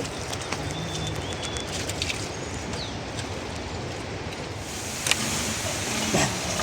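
Steady outdoor background noise with a few faint bird chirps and scattered sharp clicks; the noise grows brighter about four and a half seconds in.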